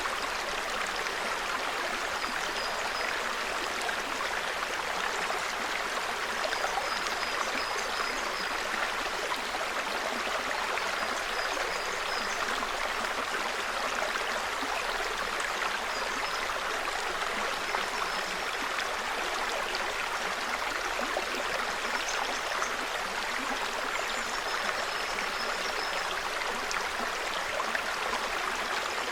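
Small mountain brook babbling steadily over stones, with a songbird's short high chirps coming in brief runs every few seconds.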